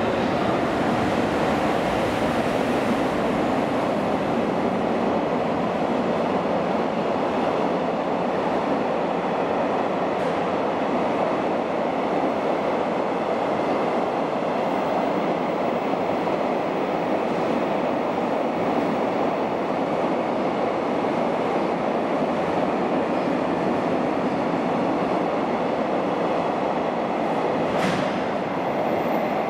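Container freight train rolling through a station, a steady rumble of wagon wheels on the rails that keeps on without a break, with one sharp click near the end.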